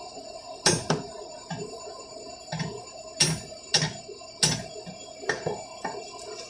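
Hammer blows on a hot steel bar being forged and drawn out: about ten sharp metallic strikes, irregularly spaced, each ringing briefly, over a steady hum.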